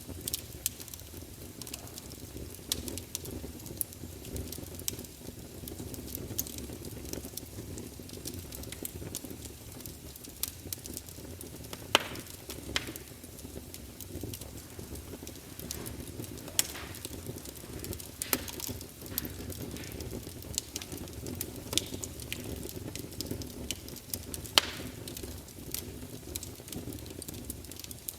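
Campfire burning with a steady low rumble, and frequent irregular crackles and pops of burning wood, a few sharper loud pops among them.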